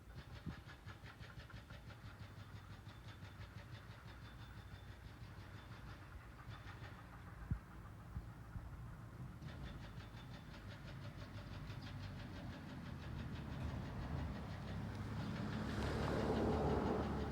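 Steady low outdoor rumble that swells toward the end as a motor vehicle passes close by, with a single sharp knock about halfway through.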